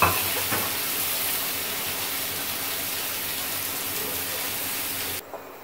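Mortadella slices sizzling in hot oil in a non-stick frying pan, a steady hiss. There is a light knock at the start and another about half a second in. The sizzle cuts off suddenly near the end.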